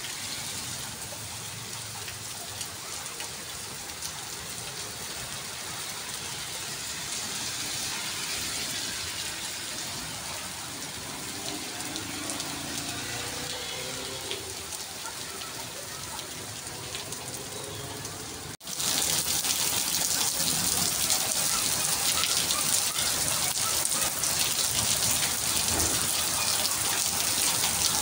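Steady rain falling on a wet paved street. About two-thirds of the way through it cuts abruptly to louder rain.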